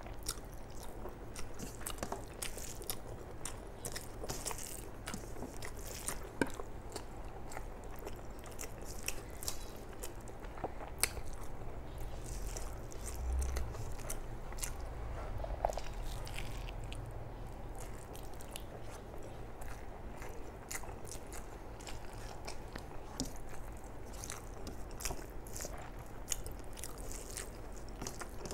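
A person chewing a mouthful of rice with chicken gizzard and liver curry, eaten by hand, with many small wet mouth clicks throughout.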